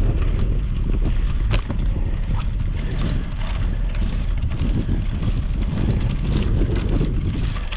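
Wind buffeting the microphone of a camera on a bicycle riding over gravel, a steady rumble with many small clicks and rattles from the bike and the stones.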